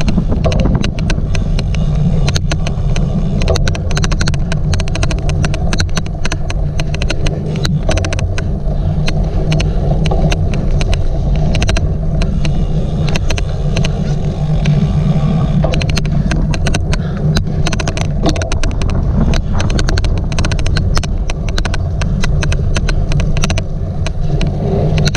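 A bicycle racing over a rough cyclocross course, heard from a camera on the bike or rider: a steady low rumble of wind and tyres on the mic. Many irregular sharp clicks run through it, an odd clicking noise from the rig.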